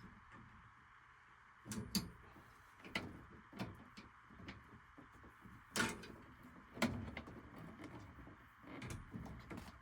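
Irregular clicks, knocks and clanks of hand tools and sheet-metal furnace parts being handled during disassembly, the loudest two knocks about six and seven seconds in, over a steady hiss.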